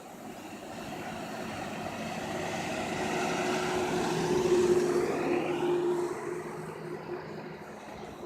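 A passing engine, growing louder to a peak about four and a half seconds in, then fading with its pitch dropping.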